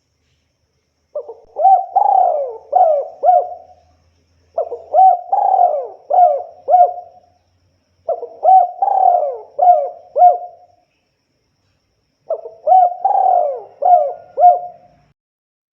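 Spotted dove cooing: four phrases a few seconds apart, each a run of cooing notes ending in three or four short, separate coos.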